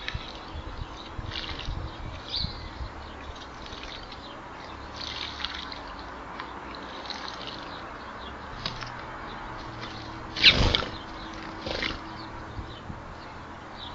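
Small birds splashing as they bathe in a shallow bird bath, over many short, high sparrow chirps. One louder splashing flurry comes about ten seconds in.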